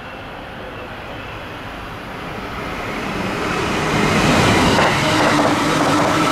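Express electric train approaching and passing at speed, growing much louder about four seconds in. As it goes by, its wheels clack in quick succession over the rail joints.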